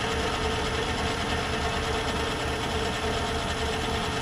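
Myford lathe running steadily under power feed, its change gears humming a little because a very small gear is fitted on the drive.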